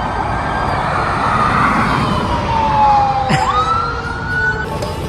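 A siren wailing, its pitch jumping up, sliding slowly down, then jumping up again, over a steady low rumble. A single short click comes about three seconds in.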